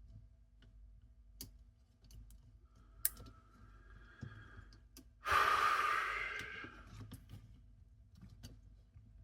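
Light clicks and taps of small mechanism parts being handled, with a loud sigh about five seconds in, the sound of frustration at a gear alignment that keeps coming out slightly off.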